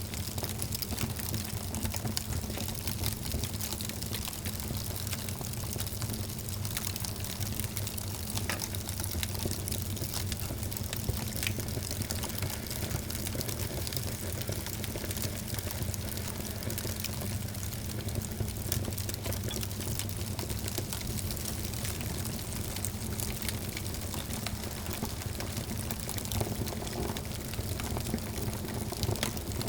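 Wood fire burning in a fireplace: a steady low rumble of flames with many small crackles and pops.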